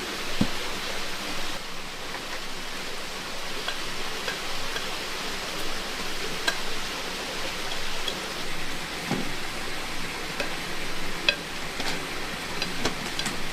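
Heavy rain falling, a steady hiss with scattered sharp taps of drops landing.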